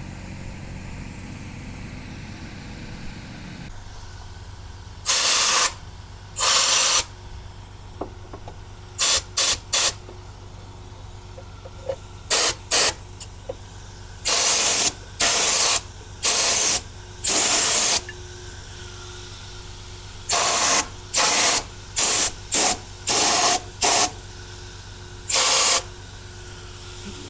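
MIG welder laying a series of short tack welds on a car chassis patch panel: about twenty bursts of crackling hiss, each from a fraction of a second to about a second long, with short gaps between them, over a steady low hum.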